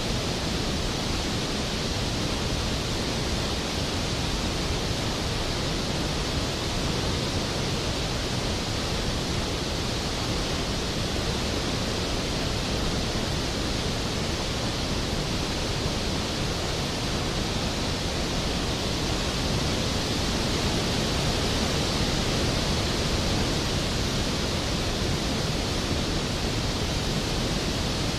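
Large waterfall plunging into its pool: a steady, dense rush of falling water with deep rumble and bright hiss together, unchanging throughout.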